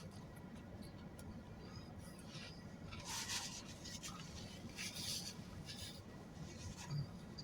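Quiet eating sounds from a person eating a sandwich: a few short scratchy rustles, the clearest about three seconds in and again near five seconds.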